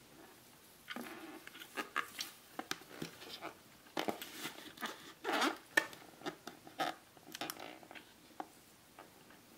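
Handling noise from unboxing ceiling-fan parts: irregular rustles, light clicks and knocks, busiest in the middle and tailing off near the end.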